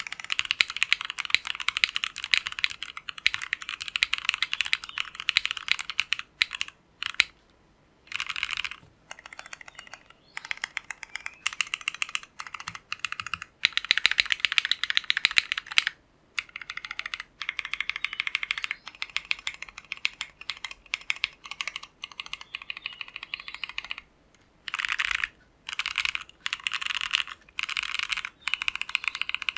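Fast typing on an Ozma60 mechanical keyboard fitted with Tecsee Jadeite switches. The clicks come in quick runs, with short pauses between bursts.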